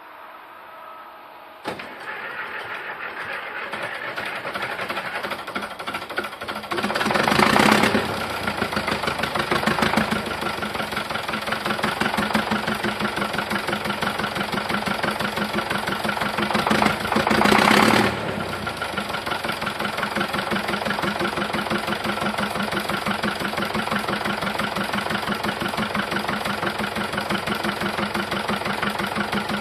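Zetor 50 Super tractor's diesel engine starting from cold: it fires up abruptly a couple of seconds in and builds speed, is revved up briefly twice, then settles into a steady, rhythmic knocking idle.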